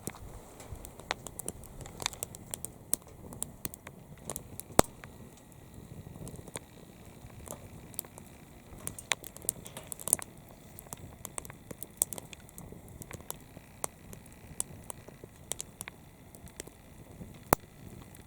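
Firewood crackling as it burns in a secondary-combustion fire pit stove, with irregular sharp pops and snaps; the loudest snap comes about five seconds in, and another loud one near the end.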